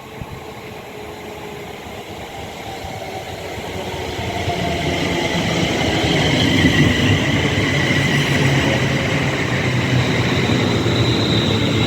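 Class 350 Desiro electric multiple unit, two units coupled, pulling into the platform. It grows louder over the first six seconds and then holds steady, a rumble with a high whine over it.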